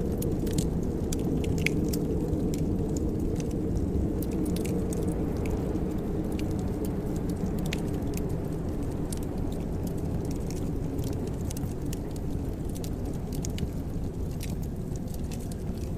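Wood fire in a fireplace crackling, with scattered sharp pops and ticks at irregular moments over a steady low rumble.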